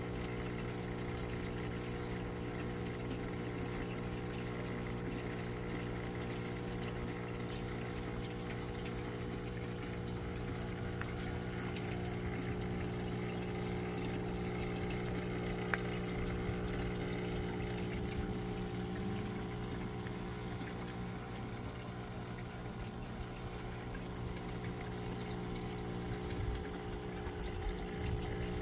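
Aquaponics system's water pump humming steadily, with water pouring and trickling.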